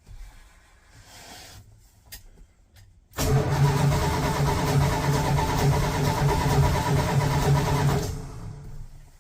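1985 Dodge D150 pickup's engine cranking on the starter for about five seconds in an even rhythm without catching, then winding down: a hard start on an engine the owner tags as flooded.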